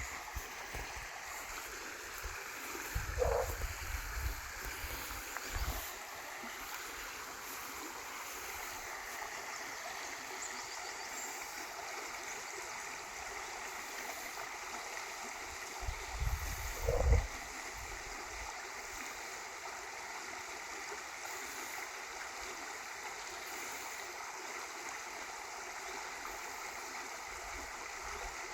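River water running, a steady rushing babble. Two short bursts of low rumble come through, a few seconds in and again past the middle, the second the loudest.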